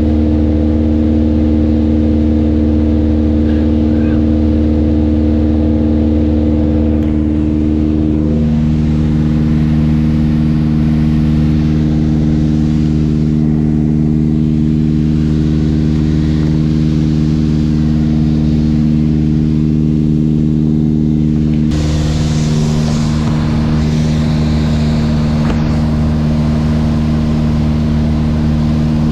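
Mooney M20J's four-cylinder Lycoming engine and propeller droning steadily as heard inside the cabin. The pitch of the drone shifts about eight seconds in, and a brighter hiss joins it about two-thirds of the way through.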